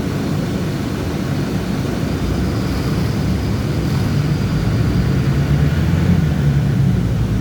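City bus's diesel engine running under way: a steady low drone that grows a little louder in the second half.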